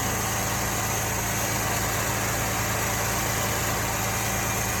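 Car engine idling steadily with the alternator's electrical connector unplugged, running on battery power alone as a test of a suspected faulty alternator.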